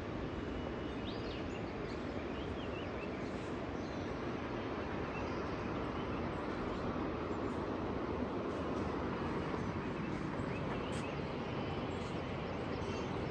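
Scattered faint bird chirps, short calls now and then, over a steady rushing background noise that is the loudest thing throughout.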